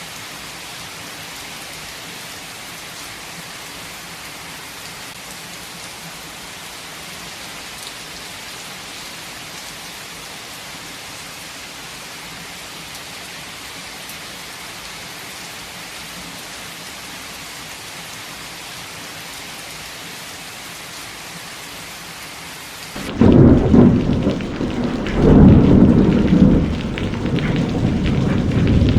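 Heavy rain falling as a steady, even hiss. Near the end, loud, low thunder rumbling over the rain cuts in suddenly, swelling and easing.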